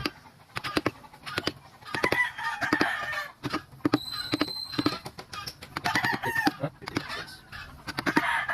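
Irregular series of sharp knocks, several a second, typical of tapping parts of a wooden leg joint together, with a few short pitched animal-like calls in between.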